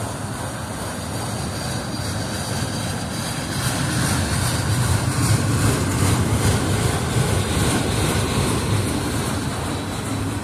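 Autorack freight cars rolling past, a steady rumble of wheels on rail that swells louder midway.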